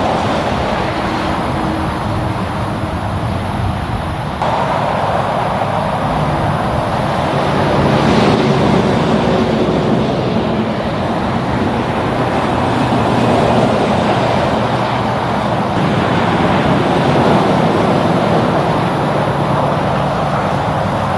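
Highway traffic: heavy trucks and cars passing, a steady rush of tyre and engine noise with a brief jump in the sound about four and a half seconds in.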